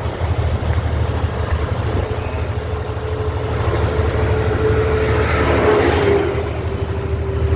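Heavy truck running, a steady low engine rumble, with a steady whine that comes in about two seconds in and swells briefly past the middle.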